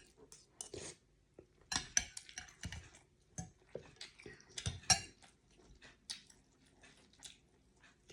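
Someone eating beef noodle soup: irregular clinks of a spoon and chopsticks against the bowl mixed with chewing.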